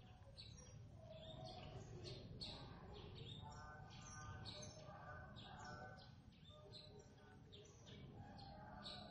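Faint birds chirping, many short repeated chirps all through.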